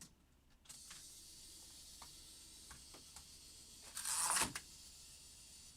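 Die-cast Hot Wheels car running along plastic Hot Wheels track: a faint steady rolling hiss with scattered light clicks, and a louder short clatter about four seconds in.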